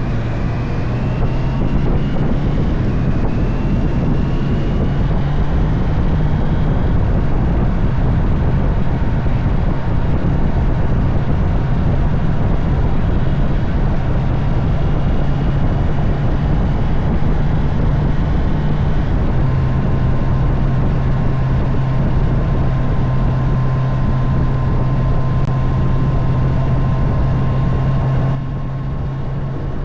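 Honda CB650R inline-four engine running steadily at cruising speed, with wind rushing past the rider. The engine note shifts a little about two-thirds through, and the whole sound drops in level shortly before the end.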